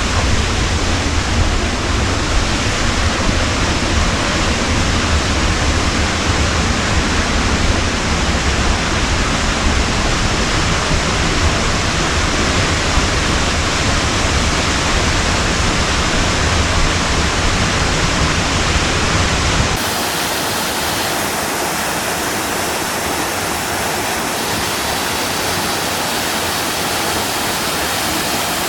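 A waterfall rushing steadily. A little over two-thirds through the sound changes abruptly, losing its deep rumble and turning brighter and more hissing.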